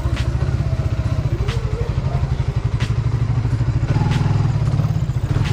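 Suzuki Raider 150 Fi's single-cylinder four-stroke engine running at low road speed, its throttle opening a little about four seconds in. A sharp click cuts through it about every second and a half.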